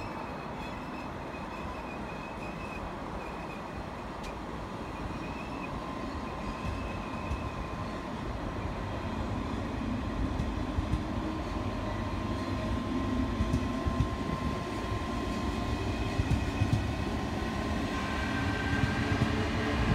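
Eurostar Class 373 high-speed electric train moving past on the platform road: a low rumble with steady high-pitched tones above it, growing steadily louder, with a few sharp wheel clacks in the second half.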